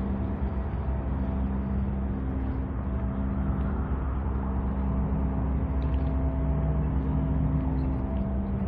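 Road traffic: motor vehicle engines running with a steady, unbroken hum.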